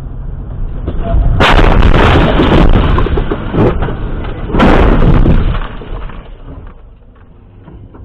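Car crash picked up by a dashcam microphone: two sudden, very loud impacts about three seconds apart, each followed by a second or two of harsh noise that dies away, over a steady low road rumble.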